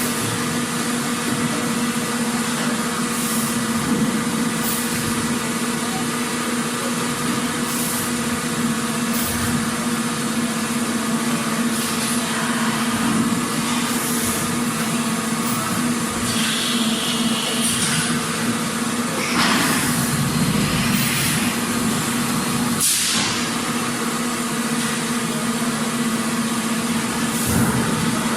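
Factory machinery ambience: a steady mechanical hum with a constant low tone over a dense noise bed, broken by occasional short hisses and clatters at irregular intervals.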